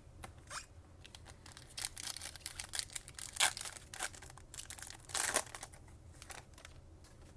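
A foil trading-card pack being torn open and its wrapper crinkled: irregular crackles and sharp rips, the loudest about three and a half and five seconds in.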